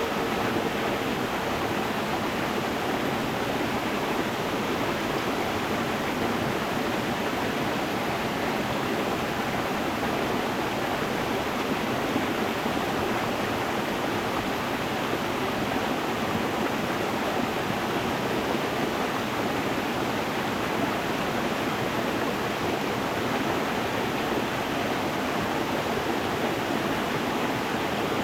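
Stream water running over stones: a steady, even rushing with no breaks. A faint ringing tone dies away about a second and a half in.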